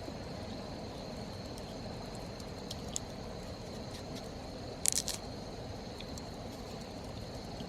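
A steady, high insect trill, typical of crickets at night, over a faint even rushing noise, with a few sharp clicks and a brief cluster of them about five seconds in.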